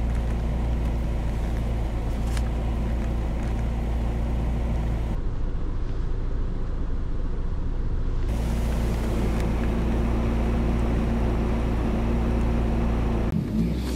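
1999 Ford Ranger pickup's engine running with a steady low drone, heard from inside the cab.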